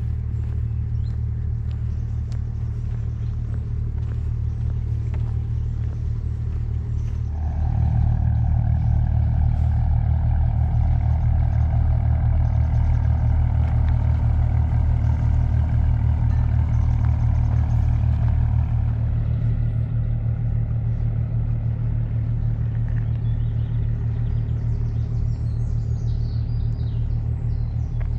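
An engine running steadily with a low hum. It grows louder about seven seconds in, with a higher tone added, and eases back a little around nineteen seconds.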